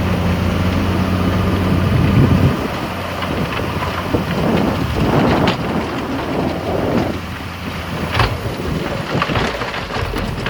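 Heavy diesel earthmoving machinery at work: a steady engine hum that drops away about two and a half seconds in, followed by a rough rushing rumble with scattered clatter.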